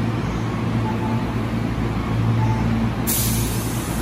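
Electric Tobu Urban Park Line train standing at the platform with a steady low hum. About three seconds in, a sudden hiss of compressed air starts from the train's air system as its doors are about to close for departure.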